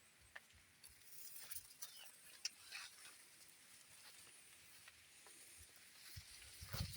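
Near silence: faint background hiss with a few soft, scattered ticks and rustles.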